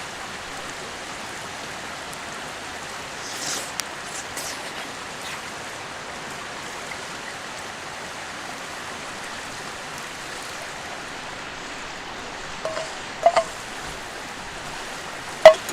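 Steady rush of a clear mountain river flowing. A few short knocks come near the end, the loudest one just before the end.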